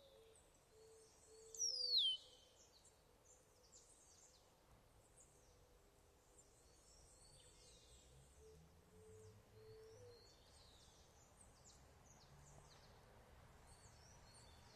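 Birds chirping faintly with many short, high calls, and one louder whistled call sliding down in pitch about two seconds in.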